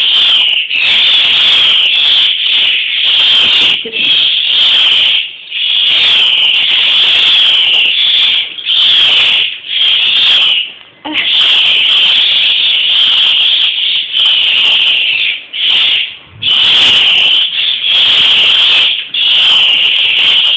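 Bird giving loud, shrill, raspy begging calls in long runs, broken by short pauses every second or two, as it is fed.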